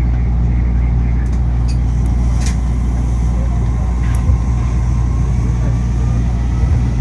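Steady low hum and rumble inside a Yui Rail monorail car, from its air conditioning and running gear.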